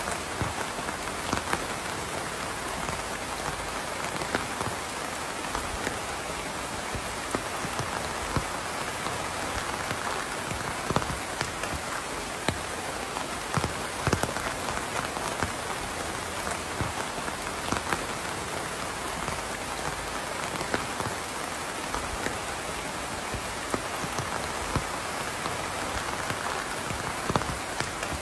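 Steady rain, a dense even hiss with frequent louder individual drops tapping sharply on a surface.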